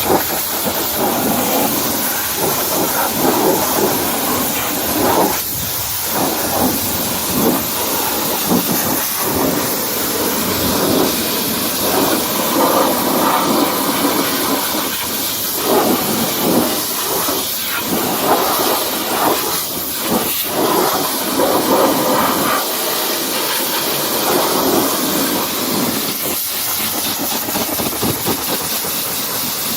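High-pressure washer spraying water against a truck, a steady hiss that swells and thins as the jet moves across the surfaces.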